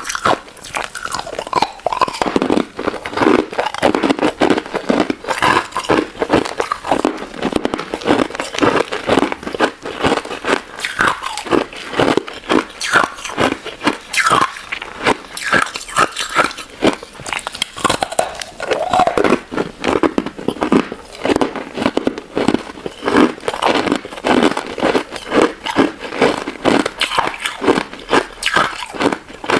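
Close-miked eating: a crunchy crystal ice dessert bitten and chewed, with dense, irregular crunching and crackling and wet mouth sounds.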